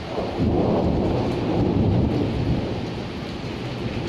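Thunder rumbling over steady rain: a low rumble breaks in about half a second in, swells, and slowly eases, with the hiss of rain underneath.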